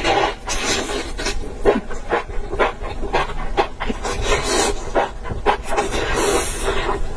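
A person eating fast close to the microphone: quick, irregular wet chewing and smacking sounds.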